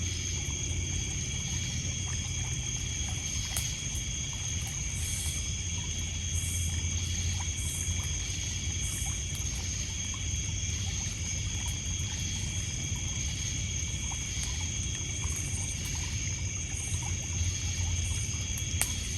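Night insect chorus of crickets: several steady high trills at different pitches, with another high insect call pulsing about once every second or so in stretches. Underneath are water splashing on a pebble shore and a few faint crackles from a wood fire.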